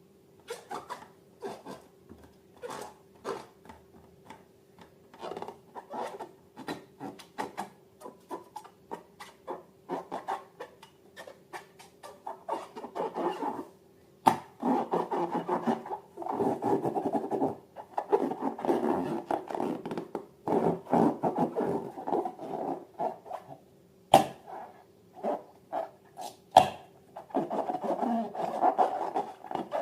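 Slime being worked by hand: scattered crackling pops at first, then longer stretches of dense rubbing and squishing, over a faint steady hum.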